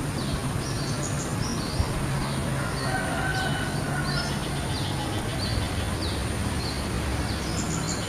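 Spiderhunter (pijantung) calling: a string of short, sharp, downward-sweeping chirps, several a second, over a low steady rumble and a thin steady high whine.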